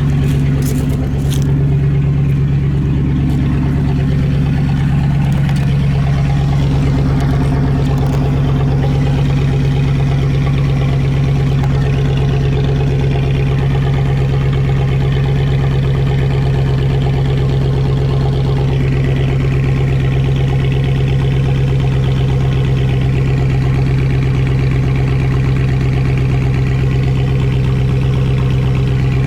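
2006 Ford F-150's 4.6-litre V8 idling steadily through a muffler-less exhaust (headers and cats joining, then dumps), warming up from cold.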